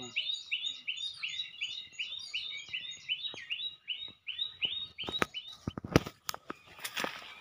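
A bird calling a long series of identical short notes, about three a second, each rising and falling in pitch. The notes stop about six seconds in. A few sharp clicks and knocks follow near the end.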